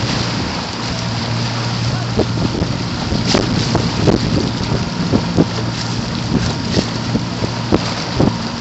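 Boat motor humming steadily under wind noise on the microphone, with scattered splashes of water.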